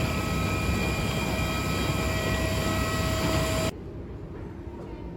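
Steady vehicle running noise with a few held whining tones over a rumble. It cuts off suddenly about two thirds of the way through, and a quieter rumble follows.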